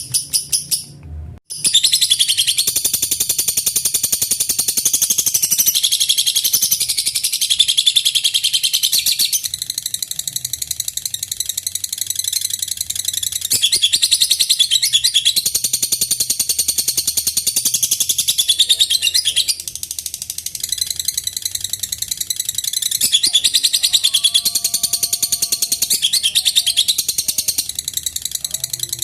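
Lovebird singing 'ngekek': a long, unbroken run of very rapid, high-pitched chattering. It starts after a short break about a second and a half in and keeps going with only slight swells and dips.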